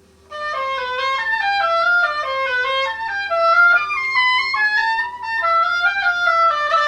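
Oboe playing a melodic passage, moving smoothly from note to note in steps, starting just after the opening.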